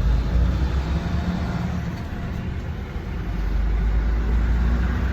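Steady engine hum and road rumble from inside a moving vehicle.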